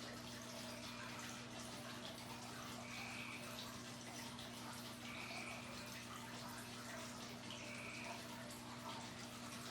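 Faint room tone: a steady low electrical hum under an even hiss, with a faint short high beep repeating about every two and a half seconds.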